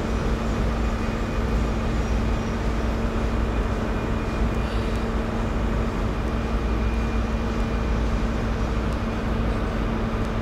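Two coupled Class 802 bi-mode trains running slowly into the platform on their underfloor diesel engines, giving a steady hum over a low drone.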